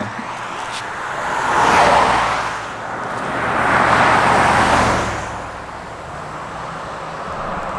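Two cars passing by on a road one after the other, each a swell of tyre and engine noise that rises and fades, about two and four seconds in.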